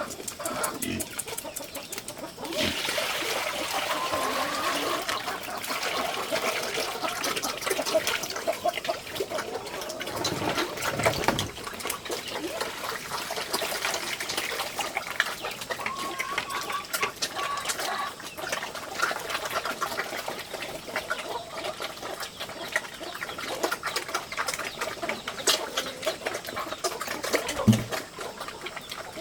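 Chickens clucking at a farmyard, with short calls here and there over many small clicks and rustling noises.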